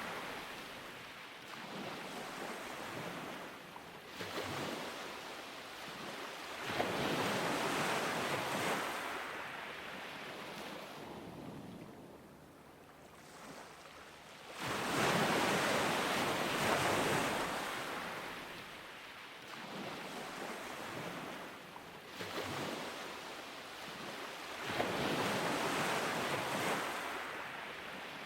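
Ocean surf breaking on a beach in repeated surges, each rush of waves swelling and washing back over a few seconds; the loudest break comes about halfway through.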